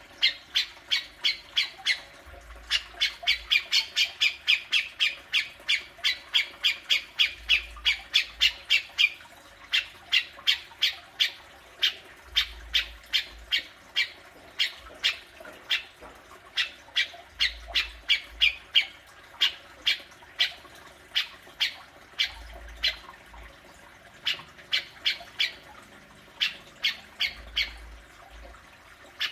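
Grey-cheeked bulbul (cucak jenggot) giving its 'besetan' call: short, sharp notes repeated two to four times a second in long runs with brief pauses.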